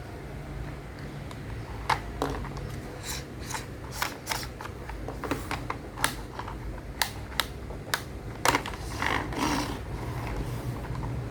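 Irregular sharp clicks and taps of small toy parts being handled and fitted together, about a dozen over several seconds, over a steady low hum.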